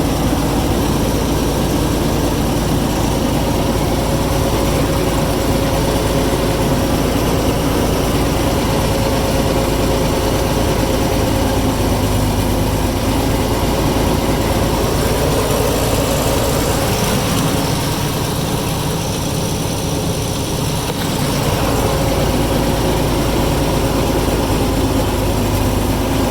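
Backhoe's diesel engine running steadily. Its low rumble eases for a few seconds about two-thirds of the way through, then comes back.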